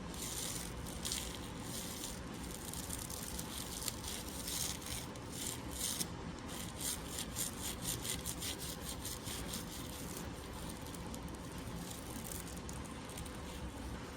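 Continuous scratchy rubbing and rasping of an ear-cleaning tool being worked slowly in the ear canal, with many short scrapes.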